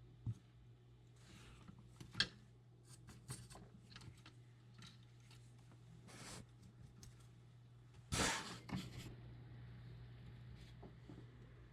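Small tools being handled during micro-soldering work: scattered light clicks and ticks, a sharp click about two seconds in and a louder scraping rustle about eight seconds in, over a steady low hum.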